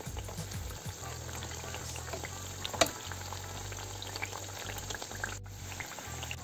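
Cartellate dough rosettes frying in shallow oil in a pan: a steady crackling sizzle full of small pops, as hot oil is spooned over them. There is one sharp tap near the middle, and the sound breaks off for a moment about five seconds in.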